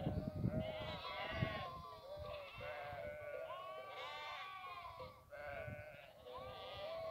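A chorus of many animals calling at once, their calls overlapping and bending up and down in pitch.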